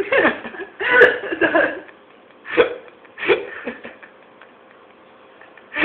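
A pet chewing and smacking on a piece of melon, heard as a few short separate bursts of wet munching, the longest near the start.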